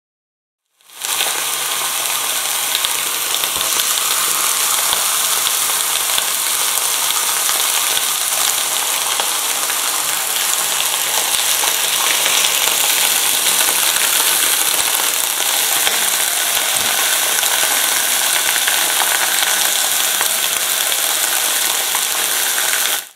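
Blanched pak choi sizzling loudly as it fries in hot oil in a frying pan, a steady frying hiss that starts abruptly about a second in.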